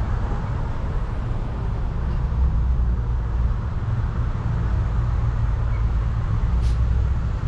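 Steady low engine rumble of vehicles running close by, holding an even level throughout.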